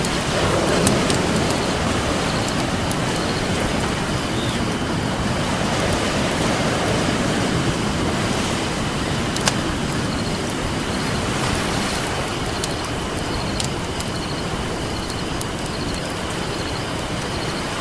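Ocean surf washing in steadily, swelling and easing, with the sharp scattered pops and crackles of a wood campfire.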